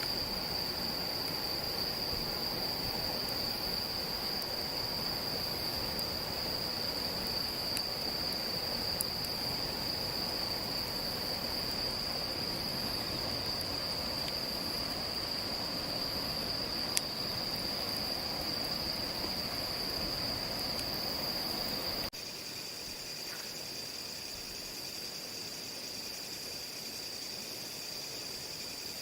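Night insects trilling in a steady, unbroken high chorus over a background hiss, with a couple of faint ticks. About two-thirds of the way through, the hiss drops away abruptly and a second, lower-pitched insect trill joins the first.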